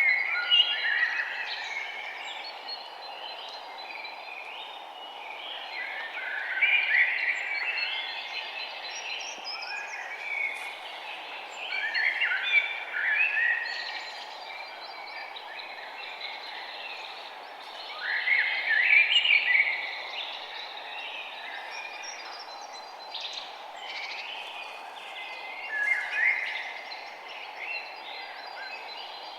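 Songbird singing in repeated chirping phrases about every six seconds, over a steady low rushing noise.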